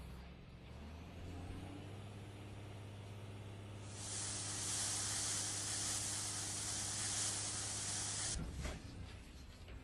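Cartoon sound effect of a dump truck's engine running with a steady low hum. A long hiss of air joins it about four seconds in and stops abruptly about four seconds later.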